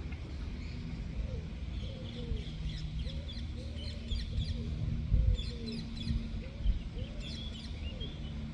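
Small birds chirping and twittering in quick high bursts, over a lower call repeated about once or twice a second, against a steady low rumble. Two dull low thumps come near the middle and later on.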